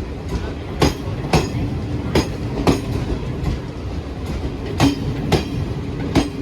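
Passing Garib Rath Express coaches: a steady running rumble with sharp clickety-clack as the wheels cross rail joints, the clacks mostly in pairs about half a second apart, the pairs repeating every second and a half or so.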